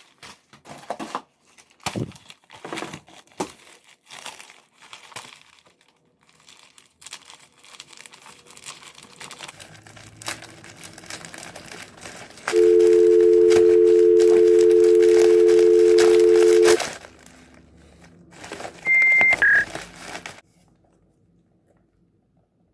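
Crinkling and rustling of plastic or paper, with scattered clicks. After that comes a loud, steady two-note electronic tone lasting about four seconds, then a short high beep and a lower one.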